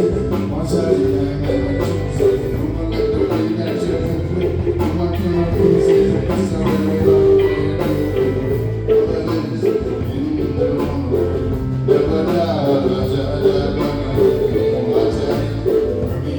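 Live band playing an original song: electric guitar, bass and drum kit with a steady beat, in an instrumental stretch.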